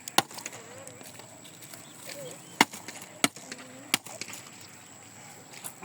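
Sharp knocks of wood being handled for a bonfire pile, about five irregularly spaced strikes, with three coming about two-thirds of a second apart in the middle.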